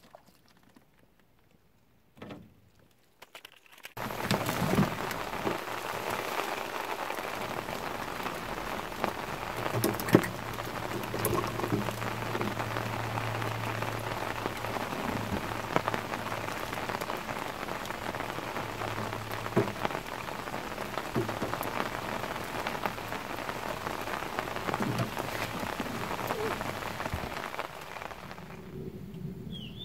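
Heavy rain falling on a surface, a dense patter with many sharper drop hits. It starts abruptly about four seconds in, after near silence, and drops in level near the end; a low steady hum runs under it for several seconds in the middle.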